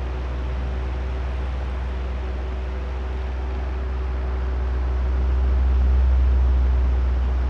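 Oscillating electric fan running steadily: a low motor hum with a few faint steady tones under the whoosh of air, swelling louder about six seconds in as the fan sweeps toward the microphones, then easing off.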